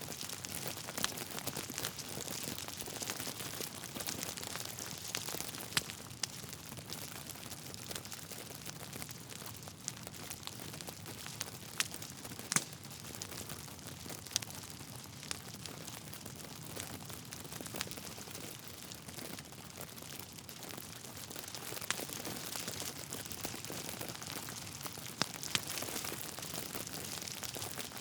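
Wood fire crackling steadily, with scattered sharp pops from the burning logs over a soft hiss.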